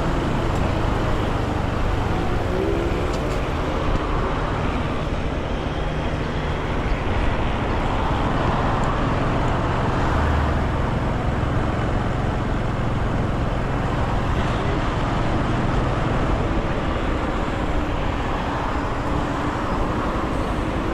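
Motorcycle engine running on the move, with steady wind and road noise and a few slight rises and falls in engine pitch.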